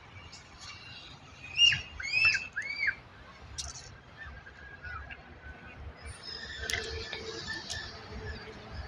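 A bird calling: four or five short, arching notes in quick succession, the loudest sounds here, followed by a softer steady hiss of background noise.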